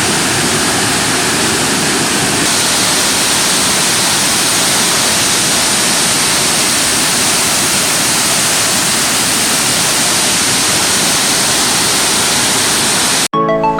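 Loud, steady rushing of water from a waterfall. It cuts off abruptly near the end, and music begins.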